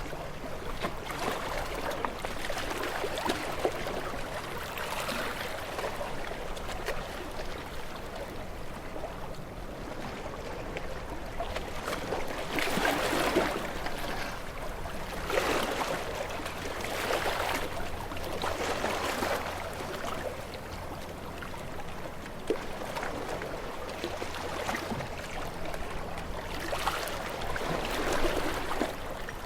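Ocean waves washing in: a steady rush of water that swells into louder surges every few seconds and eases off between them.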